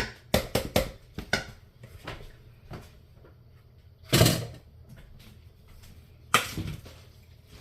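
Spoon stirring chicken salad in a bowl: a quick run of clicks and scrapes, then a louder scrape about four seconds in and another just past six seconds.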